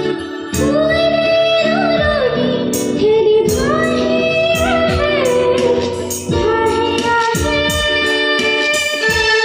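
A young girl singing an Assamese song, holding notes with vibrato and sliding between pitches, over sustained keyboard chords and a light percussive beat.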